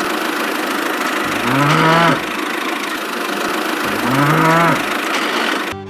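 A cow mooing twice, each call about a second long and rising then falling in pitch, over the steady noise of a small engine running.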